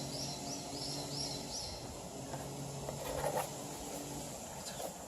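Bird calling: a quick run of about six short, high chirps in the first two seconds, over a steady low hum. A brief louder sound a little past three seconds.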